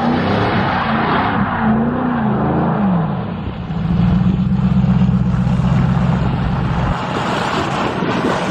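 Ford New Edge Mustang engine revving, its pitch rising and falling and then dropping. About four seconds in it climbs to a high pitch and holds there steadily with a choppy stutter, bouncing on the rev limiter.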